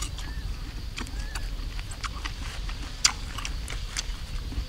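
Crisp sour fruit being bitten and chewed: a handful of sharp crunches at irregular intervals, the loudest about three seconds in.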